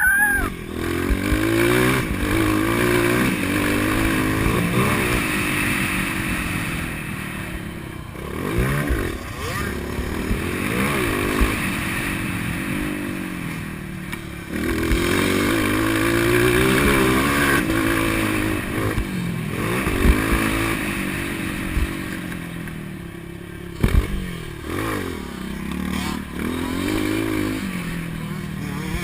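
Motocross bike engine revving up and falling back again and again as it accelerates and shifts, with a steady rush of noise. A few sharp knocks come about two-thirds of the way through.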